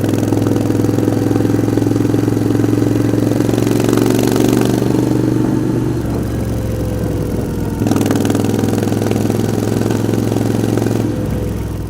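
Moto Guzzi V7's air-cooled transverse V-twin engine running, mostly steady, dropping back for a couple of seconds in the middle before picking up again.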